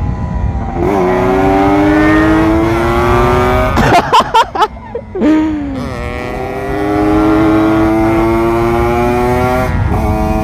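Kawasaki Ninja RR 150's two-stroke single-cylinder engine pulling under throttle, its revs climbing slowly. About four seconds in comes a brief burst of loud, uneven revving before the revs climb again, with a small drop near the end like a gear change.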